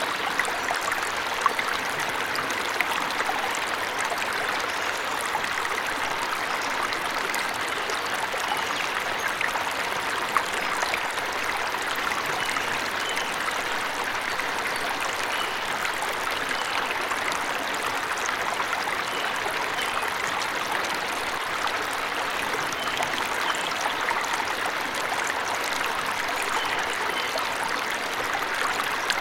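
Small forest waterfall running steadily: a constant rush of splashing, trickling water, with a few sharper splashes in the first ten seconds.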